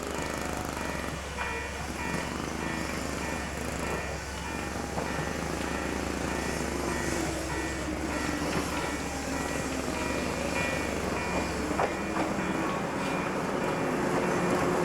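A train running through the station, with a tone slowly rising in pitch over the second half and the sound growing louder toward the end.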